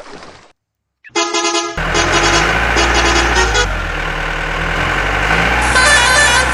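Cartoon vehicle horn honking once, about a second in after a short silence, followed by a steady engine drone with further tonal sound effects over it.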